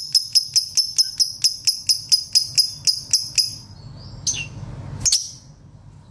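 Lovebird chirping in a fast, even series of shrill notes, about four or five a second, that breaks off after about three and a half seconds, followed by two single calls.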